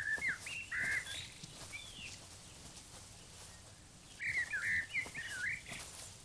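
A songbird singing short, quick whistled phrases over faint outdoor ambience. There is one run of phrases at the start and a second about four seconds in.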